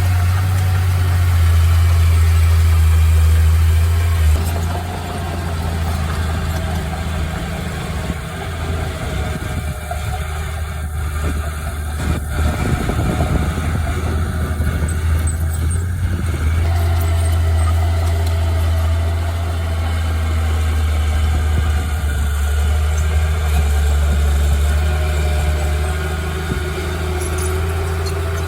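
Heavy machine or truck engine running with a steady deep drone, dropping somewhat about four seconds in and coming back up a little past the middle.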